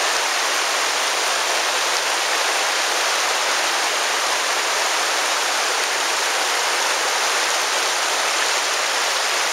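The Virgin River running over rocks, a steady rush of moving water.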